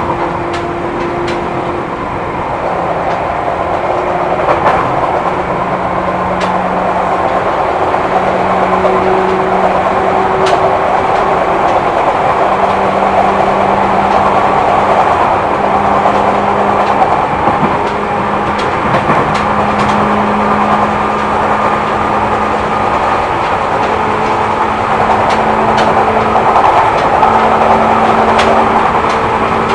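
Seibu New 2000 series electric train running, heard from inside the passenger car. The motor hum climbs in pitch in steps as the train gathers speed, over a steady rumble of wheels on rail with scattered faint clicks.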